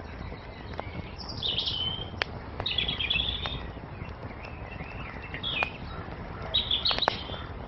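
Wood fire crackling, with scattered sharp pops over a steady low rush, while small songbirds chirp in four short bursts of song.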